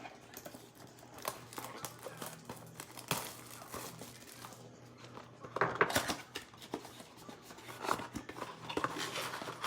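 Crinkling and rustling of foil card-pack wrappers and a cardboard blaster box being handled and opened, with scattered small clicks and taps. The rustling is denser about halfway through and again near the end.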